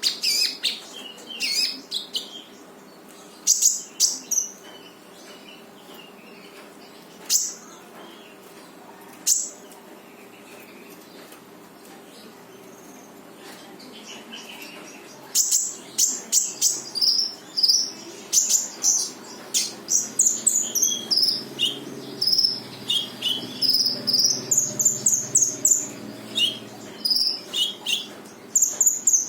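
Konin songbird singing in sharp, rapid bursts of high chirping calls (gacor 'tembakan' song). A few short bursts in the first third, a gap of several seconds, then an almost unbroken run of quick notes from about halfway on.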